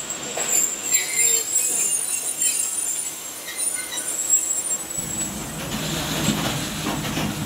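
Two passenger trains running side by side on parallel tracks, heard at an open coach door. Thin high whines from the wheels and rails carry through the first few seconds, and a heavier low rumble sets in about five seconds in.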